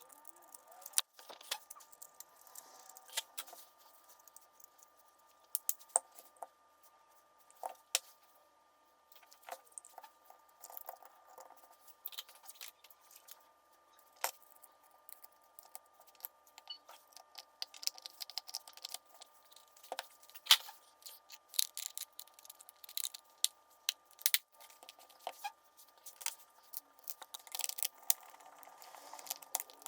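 Irregular sharp clicks, taps and small knocks from small hard parts being handled and worked on at a bench, with some rustling, over a faint steady electrical hum.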